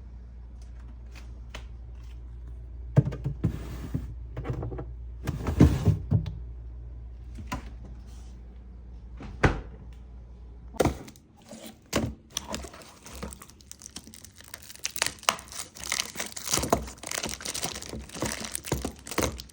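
Groceries and plastic packaging being handled: items knocking as they are set down, and plastic crinkling and rustling. A low steady hum under the first half stops abruptly about eleven seconds in, after which the crinkling becomes dense and continuous.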